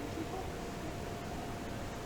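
Steady low hiss with a faint constant hum: room tone.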